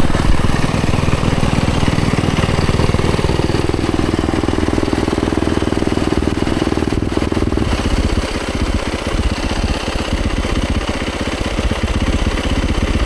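Dirt bike engine running, held at steady revs for the first several seconds, then dropping about eight seconds in to a slower, pulsing beat near idle.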